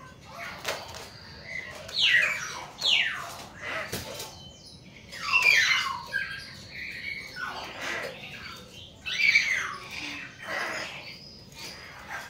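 Hill mynas giving a series of harsh squawking calls, each sliding down in pitch, with a sharp click about four seconds in.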